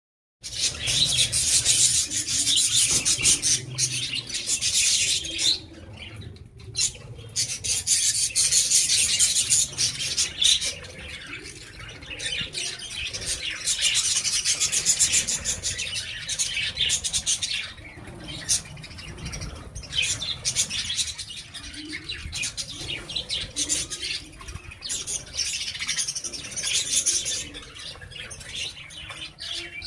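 A group of small pet parrots, budgies and lovebirds, chattering and chirping continuously in a dense, high-pitched stream of rapid calls. The chatter swells and fades, louder in the first half, with a short lull about six seconds in.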